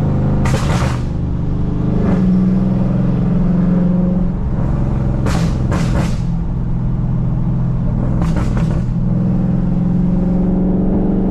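Dodge Charger Scat Pack's tuned 6.4-litre HEMI V8 running under steady throttle, its drone swelling twice. Short crackling exhaust pops break in: once near the start, then in two quick clusters of about three in the middle and later part.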